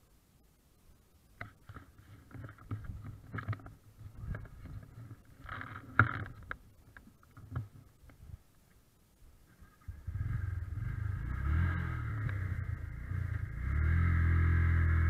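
Yamaha YBR125 motorcycle's single-cylinder four-stroke engine heard from onboard while riding. The first half is scattered knocks and rustles. About ten seconds in, a steady engine drone sets in, and it grows louder near the end as the pitch shifts slightly.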